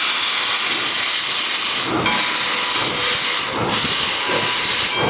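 Steam locomotive venting steam: a loud, steady hiss with a few faint irregular pulses in it.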